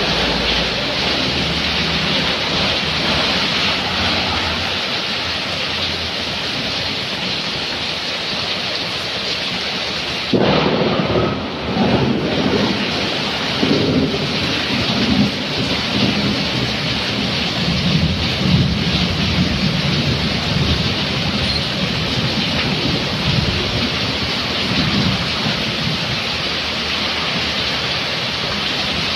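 Heavy rain pouring steadily onto a flooded road, with vehicles swishing through the standing water. About ten seconds in the sound turns suddenly louder and comes in uneven surges for several seconds.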